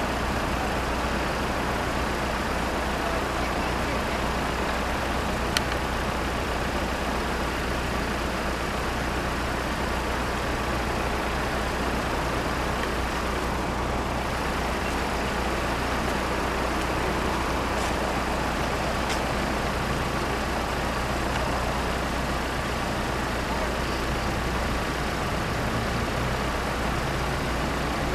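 Steady drone of road vehicle engines idling, over an even wash of traffic noise, with one sharp click about five and a half seconds in.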